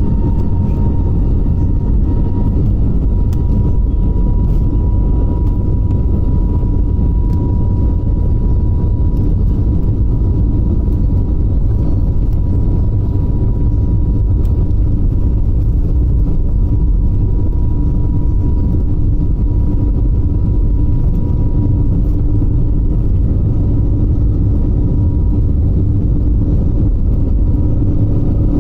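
Airbus A320neo's turbofan engines at high thrust during takeoff, heard inside the cabin: a loud, steady low rumble with a steady high whine above it.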